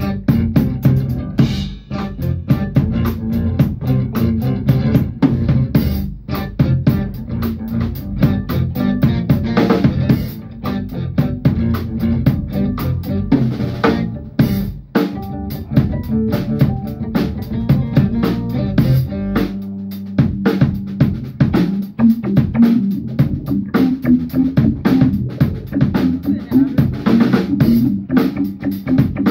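A band playing an instrumental passage, a drum kit keeping a steady beat over a bass line. The music thins briefly about halfway through, then comes back in full.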